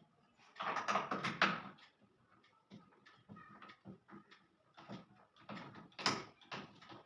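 Hand tools and fittings clattering while the front counterweight of a front-load washing machine drum is bolted on. A run of rattling knocks about a second in, scattered clicks and taps after it, and a sharper knock about six seconds in.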